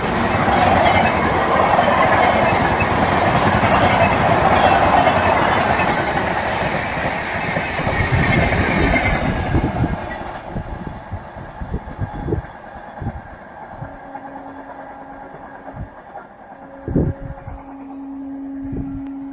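Electric multiple unit local train passing at speed: a loud rumble and rattle of wheels on the track for about ten seconds that then fades away. In the quieter second half there are several sharp knocks and a steady tone that sounds twice near the end.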